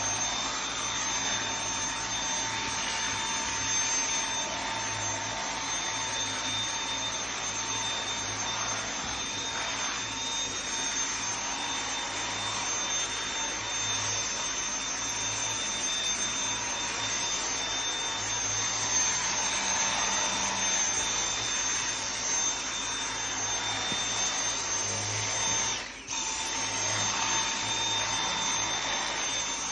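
Vacuum cleaner running steadily, a constant rushing noise with a high whine over it, dipping briefly once late on.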